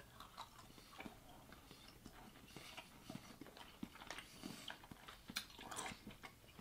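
Faint chewing of soft, cream-filled licorice candy: scattered small mouth clicks and smacks.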